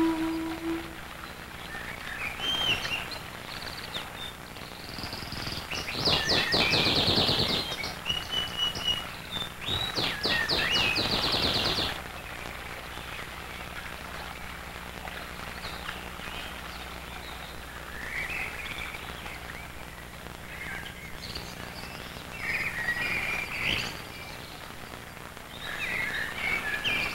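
Birds chirping, with two louder stretches of fast trilling, over a faint steady low hum. A held musical note fades out in the first second.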